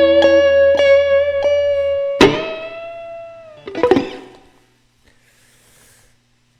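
Electric guitar, a Fender Stratocaster, closing a blues song: one high note picked again and again, then a final chord that rings and fades, and a short muted strum before the sound dies away. A low backing tone under the guitar stops about two seconds in.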